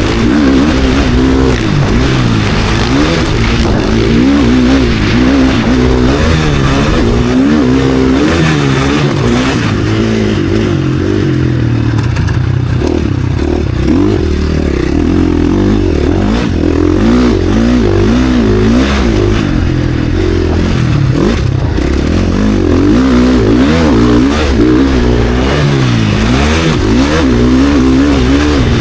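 KTM SX-F Factory Edition four-stroke single-cylinder motocross engine, loud, revving hard and dropping off again and again as the rider works the throttle and shifts.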